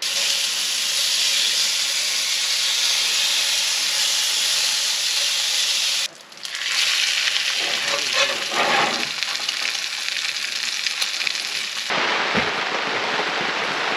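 Food sizzling in a frying pan: a steady, dense hiss that cuts out briefly about six seconds in.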